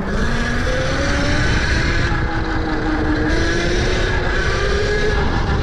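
Tuttio electric dirt bike's motor whining under way, its pitch slowly rising as the bike picks up speed, over a steady low rumble of wind and ground noise.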